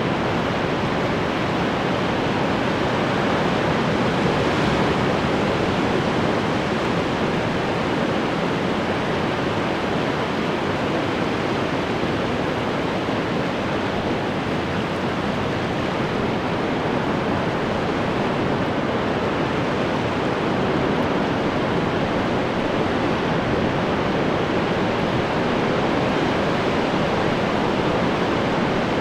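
Ocean waves washing on the shore: a steady, continuous rush of surf that swells slightly a few seconds in and again near the end.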